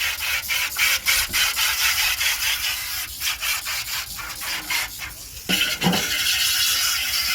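Quick back-and-forth rubbing strokes, like sanding or filing, on washing-machine drum parts during a bearing repair, several strokes a second. About five and a half seconds in the rubbing stops for two short ringing knocks, and a steadier rubbing hiss follows.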